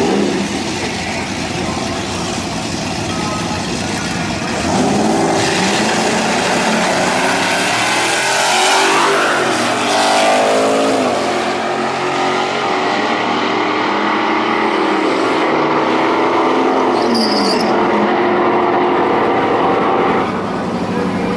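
Drag-racing truck engines running hard. They get louder about five seconds in and sweep up and down in pitch as they rev and change gear, then ease off near the end.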